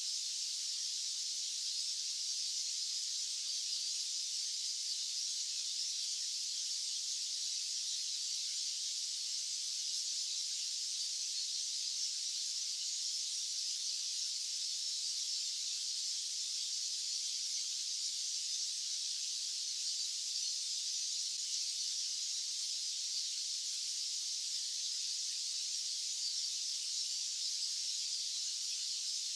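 Steady white-noise hiss, high-pitched with no low end, holding an unchanging level.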